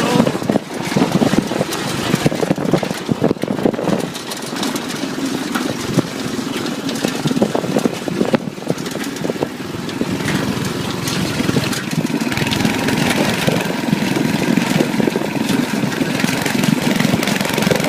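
Off-road go-kart's small engine running, with many irregular knocks and rattles through the first half, then a steadier engine sound from about halfway on.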